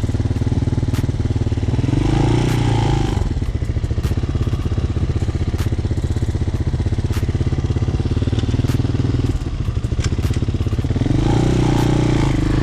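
Hawk 250 motorcycle engine running under way, its revs rising about two seconds in, easing for a moment near the nine-second mark, then rising again near the end.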